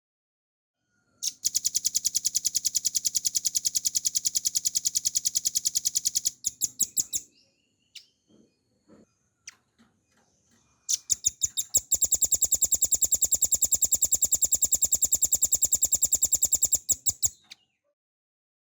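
Velvet-fronted nuthatch singing two long, very fast trills of sharp, high notes, each lasting about five seconds and ending with a few slower, spaced notes. A few faint single calls come in the gap between them.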